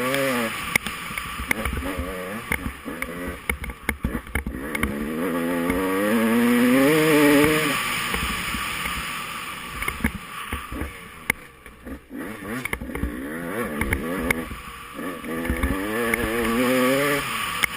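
Off-road dirt bike engine being ridden hard, its revs rising and falling constantly as the throttle is worked. It is loudest about seven seconds in, drops off sharply around twelve seconds, then revs up again near the end. Low wind rumble and scattered sharp clicks run underneath.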